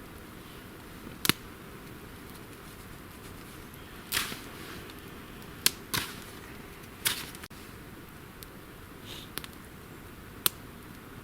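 Small campfire of damp wood just catching, giving sharp irregular pops and cracks every second or so over a low steady hiss.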